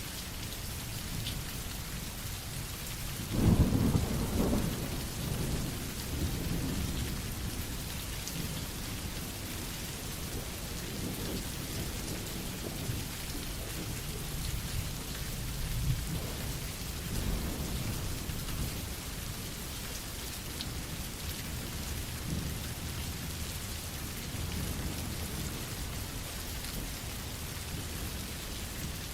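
Steady rain with rolling thunder: a loud rumble about three seconds in that dies away over several seconds, then softer rumbles later.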